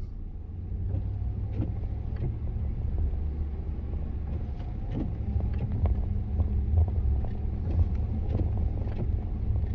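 Plow truck's engine running with a steady low drone, with a few faint clicks over it.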